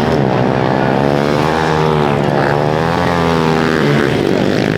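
Small motorcycle engine, likely a pit bike, revving up and down, its pitch rising and falling several times.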